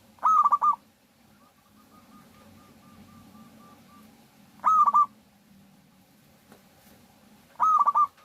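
Zebra dove (perkutut) calling: three loud, short bursts of quick cooing notes, about three to four seconds apart. A fainter dove coos in a steady string of soft notes between them.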